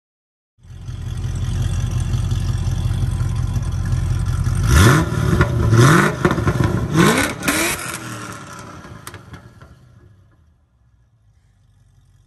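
2016 Chevrolet SS's LS3 V8, fitted with Kooks headers, X-pipe and stock mufflers, idling and then blipped three times in quick succession, each rev rising sharply and dropping back. The sound dies away near the end.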